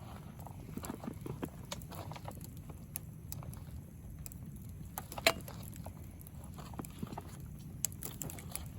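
Wood campfire burning and crackling, with irregular small pops over a low steady flame rumble and one loud sharp pop about five seconds in.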